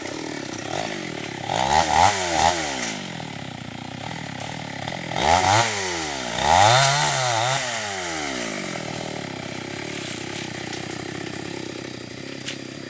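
Chainsaw engine idling, revved up and back down about three times: once about two seconds in and twice in quick succession in the middle.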